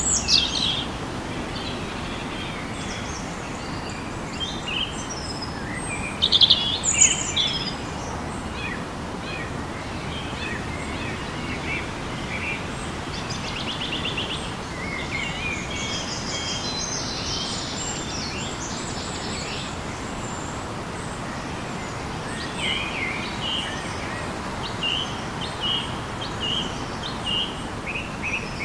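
Several birds calling and chirping over a steady background hiss, with the loudest burst of calls about six seconds in, a fast pulsed trill about halfway through and a run of short repeated notes near the end.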